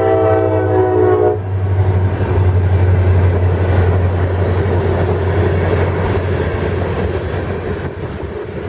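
Chord horn of a rebuilt EMD SD70MAC diesel locomotive, cutting off about a second and a half in. After that come the locomotive's steady low diesel drone and the rumble of the freight train's wheels on the rails, which fades toward the end.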